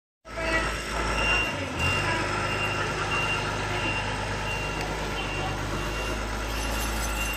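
A heavy vehicle's reversing alarm beeping about once a second over the steady low hum of its running engine.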